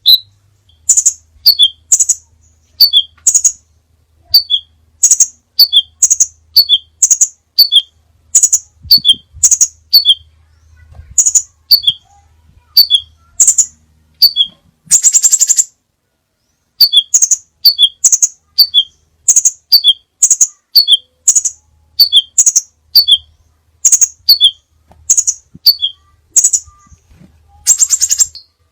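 Crimson sunbird calling: short, sharp, very high notes repeated about twice a second, with a buzzy trill about halfway through and again near the end.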